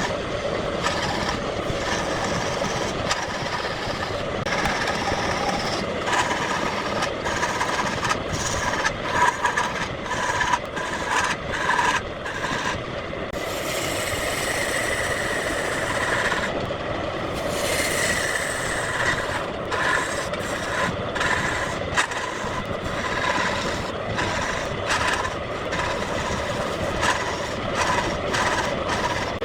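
Wood lathe running with a steady motor hum while a turning tool cuts the spinning wood, giving many short ticks and, about halfway through, two longer hissing cuts.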